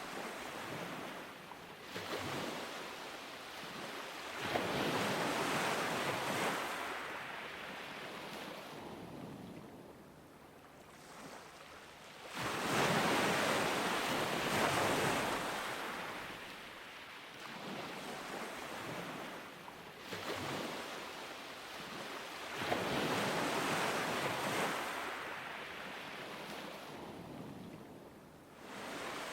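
Ocean waves breaking and washing up a beach, the surf swelling and falling away in rolling surges every few seconds, with about four big surges.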